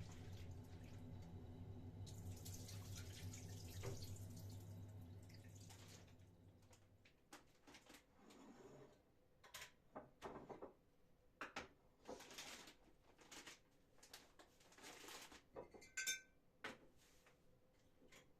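Faint kitchen-sink sounds: water dripping and splashing, with light knocks of dishes and a short ringing clink near the end. A steady low hum stops about seven seconds in.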